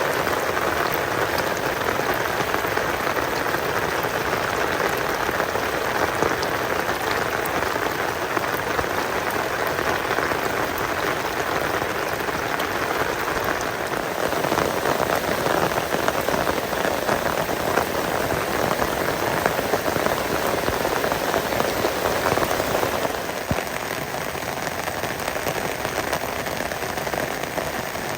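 Steady rain falling, a dense patter of drops, easing slightly near the end.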